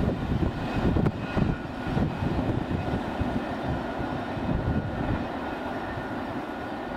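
Train cars rolling away on the rails: a steady low rumble of wheels on track that eases slowly as the train recedes, with a couple of sharp clicks about a second in.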